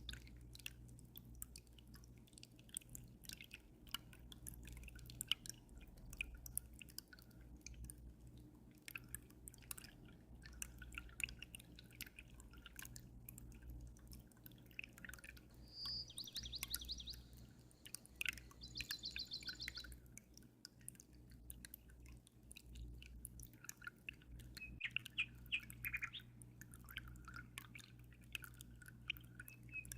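Aquarium water dripping and trickling in many small clicks over a low steady hum, with birds chirping; two quick bird trills come a little past the middle, and more chirping near the end.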